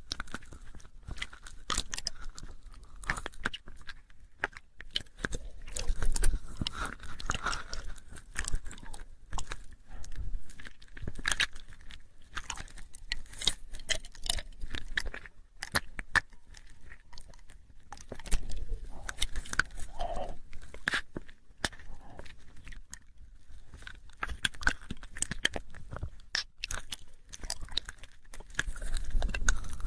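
ASMR mouth sounds made close to the microphone: irregular wet clicks and smacks of lips and tongue, coming in quick clusters with short pauses between them.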